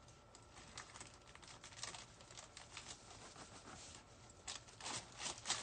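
Faint crackling rustle of evergreen stems being handled and worked into a wreath, a run of small crackles that gets louder near the end.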